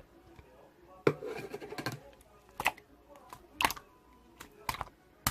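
Slime being pressed and squished by hand, giving sharp clicking pops, about one a second, with a crackly stretch after the first and loudest one.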